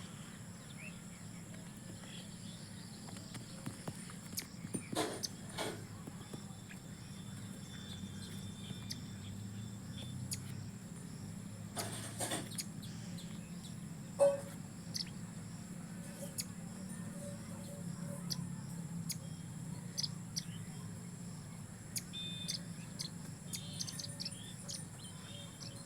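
Outdoor nature ambience: a steady high insect drone, with scattered short bird chirps and clicks and one louder short sound about halfway through.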